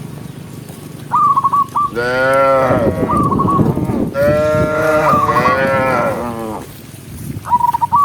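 Cattle mooing: two long moos, the second lasting about two and a half seconds. Between and over them comes a repeated run of four or five quick, high, whistle-like notes every couple of seconds.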